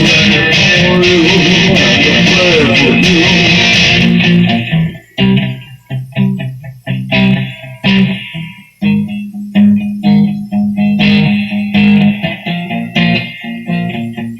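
Electric guitar playing an instrumental passage: a ringing, sustained chord for about the first four seconds, then separate picked chords, each decaying before the next.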